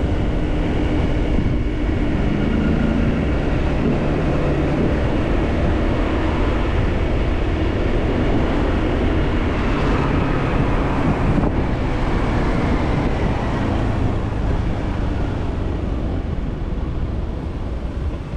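Motorcycle engine running steadily while cruising, mixed with the rush of road and wind noise. Its pitch shifts a little with the throttle, and it eases off slightly near the end.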